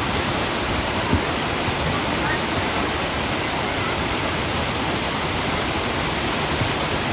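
Steady rush of water pouring over a partly iced-over waterfall.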